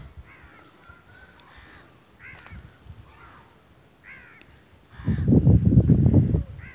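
A bird giving short, harsh calls over and over, about once a second. About five seconds in, a loud low rumble lasts for a second and a half and drowns out the calls.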